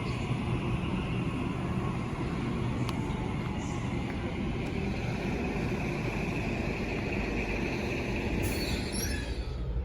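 Steady running noise inside a Sydney Trains Waratah electric train carriage: a continuous rumble of wheels on track with motor noise, and a brief hiss near the end.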